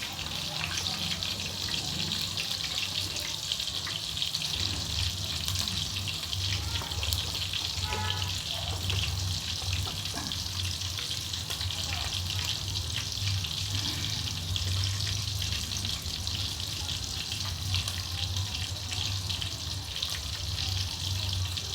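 Fried chicken pieces sizzling and bubbling steadily in a pan on the stove, with small scattered pops and a steady low hum underneath.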